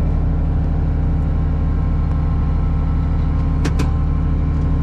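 Case IH 7120 tractor's six-cylinder diesel engine running at a steady speed. Two sharp clicks come close together about three and a half seconds in.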